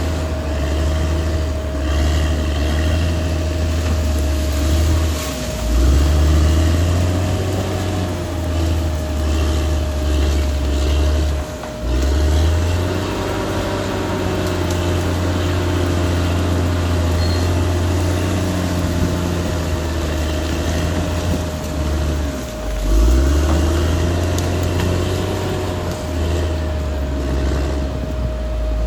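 Caterpillar D6R XL bulldozer's diesel engine working under load, its pitch dipping and picking back up three times, with a steady high whine running above the engine.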